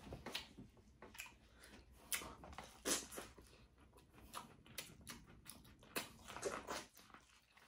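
Quiet eating sounds: scattered soft clicks and smacks of chewing, with a few sharper cracks about two and three seconds in and a cluster near the end.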